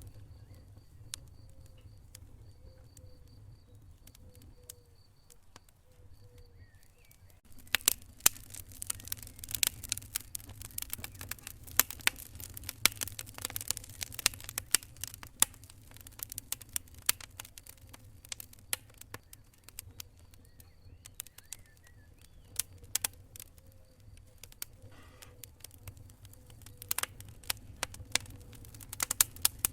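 Wood fire crackling in a fireplace: a few scattered pops at first, then from about eight seconds in a dense run of sharp snaps and pops over a low steady rumble.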